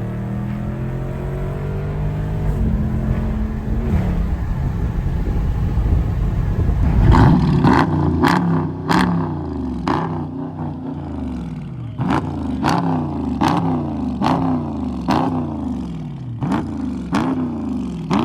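Dodge Charger SRT 392's 6.4-litre HEMI V8 engine running steadily at first. From about seven seconds in, it is revved over and over in quick blips, each rise in pitch ending in a sharp crack as the revs fall back.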